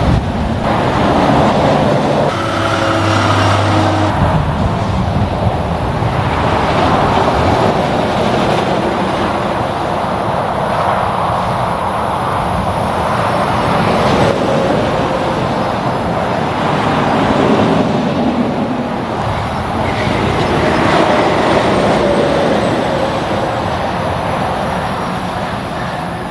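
Highway traffic with semi-trucks passing close by: steady tyre and engine noise that swells and fades as each vehicle goes past, with an engine drone about two to four seconds in.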